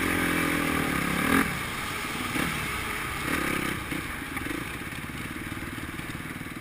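Motocross bike engine revving up and then backing off sharply about a second and a half in, with a shorter burst of revs a couple of seconds later, over the steady running of dirt bikes.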